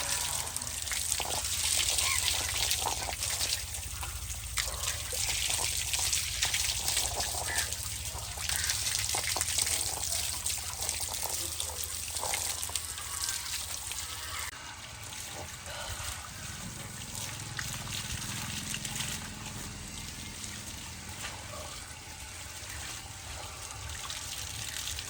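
Spring water running and splashing steadily, a trickle with small drips and splashes, a little quieter from about halfway through.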